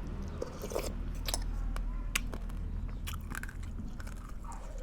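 A person chewing and eating, with scattered short clicks and taps over a low steady hum.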